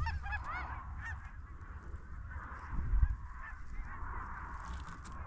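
A flock of geese honking. A few clear, arching honks in the first second give way to a steady chatter of many distant birds. A low thump comes about three seconds in.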